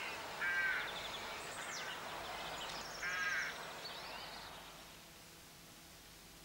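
Birds calling: two short calls about three seconds apart, with higher chirps between them, fading out about five seconds in.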